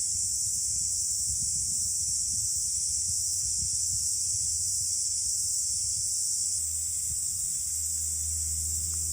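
A steady, high-pitched insect chorus drones on without a break, with strong wind gusting and rumbling on the microphone. Near the end the wind rumble gives way to a steady low hum.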